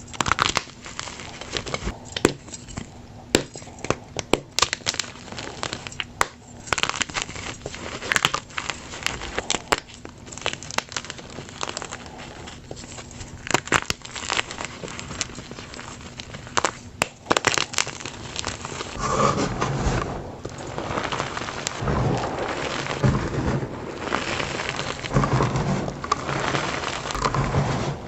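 Plain gym chalk blocks being crushed by hand, crackling and crunching. Scattered sharp snaps at first, then from about two-thirds through a denser, continuous crunch as the chalk breaks down.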